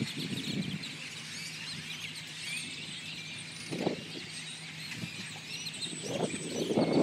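Dense, unbroken chatter of a huge flock of birds: countless overlapping high chirps and squeaks. A low rumble builds near the end.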